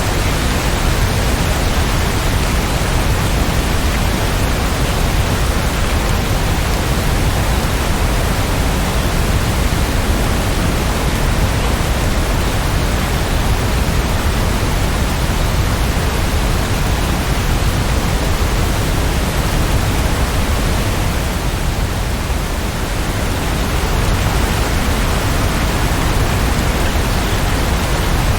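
Steady rain falling, a dense even hiss with no separate drops or patter standing out, easing slightly for a moment about two-thirds of the way through.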